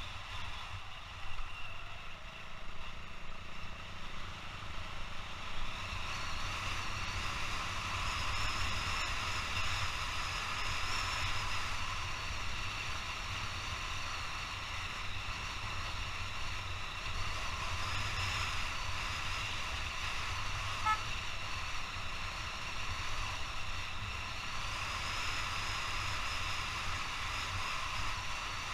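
Motorcycle on the move, heard from a helmet-mounted camera: a steady engine drone under wind rushing over the microphone.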